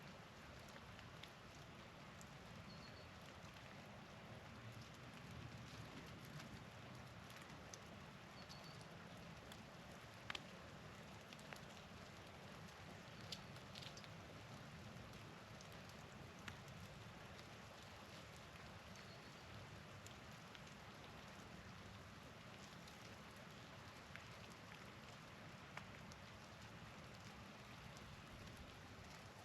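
Faint steady hiss of wet snow or rain falling, with scattered drips and ticks landing near the microphone, the sharpest about ten and thirteen seconds in. Three faint high chirps from small birds come through.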